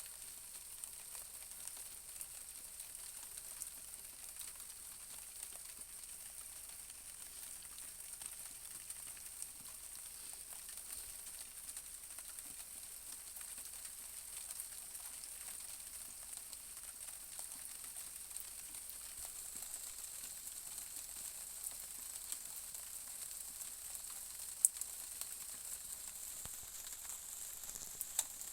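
Light rain falling during a thunderstorm: a steady faint hiss with scattered drop ticks and one sharper tick near the end.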